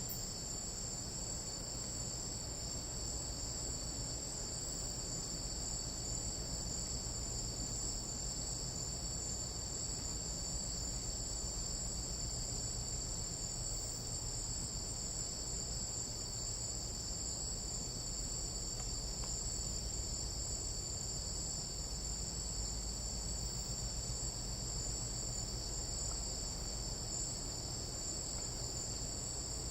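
Night insects in a tropical jungle chorusing steadily, a dense high-pitched trilling that holds unbroken, with a low rumble beneath.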